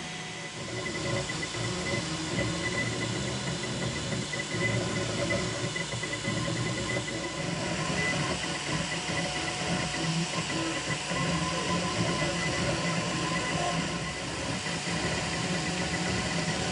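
Desktop 3D printer running: a steady fan hiss with faint steady motor tones and a restless low hum from the stepper motors driving the print head.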